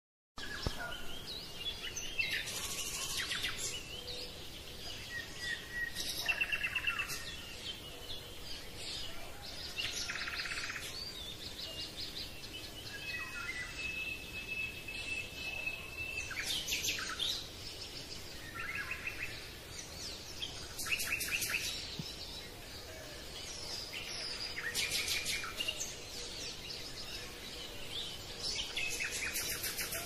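Birds singing: short high chirps and rapid trills come every few seconds, with one long steady whistled note near the middle.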